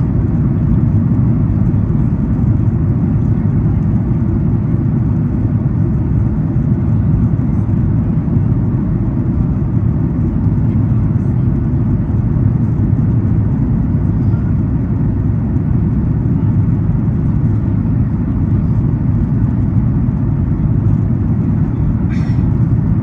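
Steady low rumble of a Boeing 737 MAX 8's economy cabin in flight on approach: airflow and engine noise. One brief click near the end.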